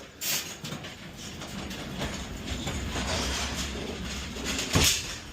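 Wheeled delivery cart being pushed, rolling and rattling with a steady rumble and many small knocks, then a loud clank about five seconds in.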